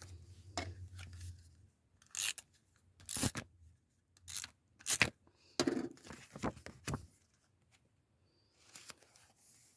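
Paper and stickers being worked by hand: a string of short, sharp papery rips and rustles, about seven over five seconds, easing off near the end.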